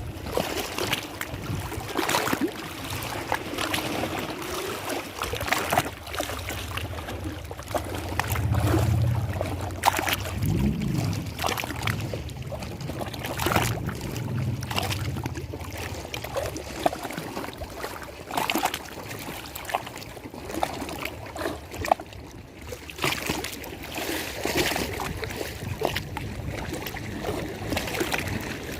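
Lake water lapping and splashing in irregular slaps. A low hum runs under it for about ten seconds in the middle.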